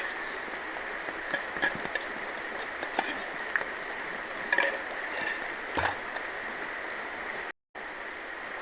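Steady rush of river water and rain with a steady high insect drone, broken by a scattering of sharp clicks and clinks; the sound cuts out briefly near the end.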